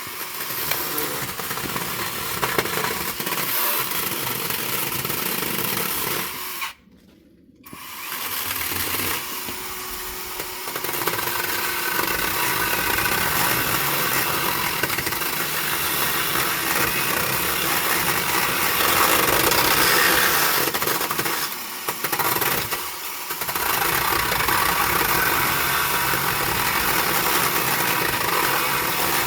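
A power tool running almost without a break, cutting out briefly about seven seconds in and dipping twice more near the end.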